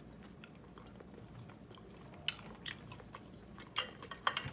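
Close-miked chewing and biting of food, with soft wet mouth clicks, then a cluster of sharper, louder clicks near the end.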